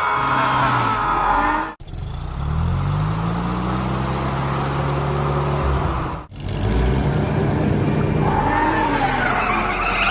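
Cartoon vehicle engine sound effects, running and revving up in pitch, then holding steady; the sound cuts out abruptly twice, about two and six seconds in.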